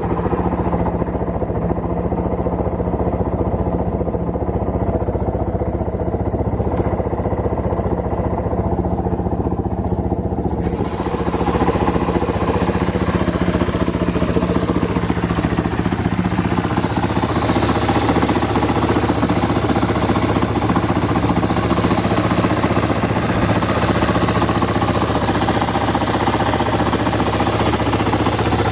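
Yamaha Serow 225's air-cooled four-stroke single-cylinder engine (a swapped-in 4JG unit) running steadily at idle, which the seller presents as running cleanly with no abnormal noise. About ten seconds in, a brighter hissing layer joins the engine sound.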